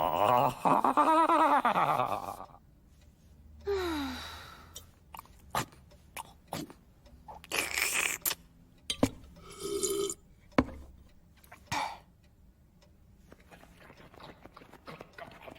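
Cartoon soundtrack of wordless vocal noises and sound effects. A loud wavering, voice-like grunt opens it. After that come a short falling glide, scattered sharp clicks and two brief hissy bursts.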